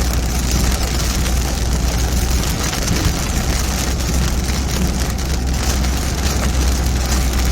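Heavy rain on a moving car, with a steady low drone of engine and road noise under it.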